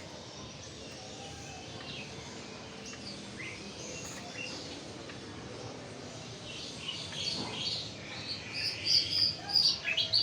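Caged young sikatan londo songbirds chirping and calling in short, high notes over a steady background hum. The chirps come scattered at first and grow busier and louder over the last few seconds.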